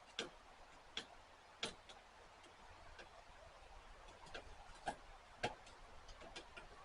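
Scattered sharp ticks and pops, irregularly spaced, with about six louder ones among fainter ones, as the rest of a hot spring-steel knife blade is quenched in oil.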